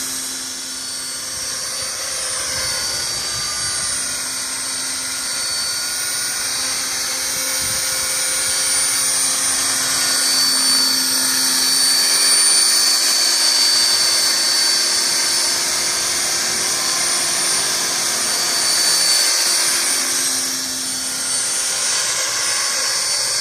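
Align T-Rex 500 electric radio-controlled helicopter in flight: a steady high-pitched whine from its motor and gears over the hum of the spinning rotor, swelling slightly in level around the middle.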